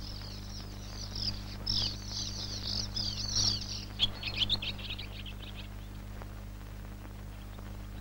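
High-pitched bird twittering: a quick, dense run of short chirps that thins out and stops about six seconds in, over a steady low hum.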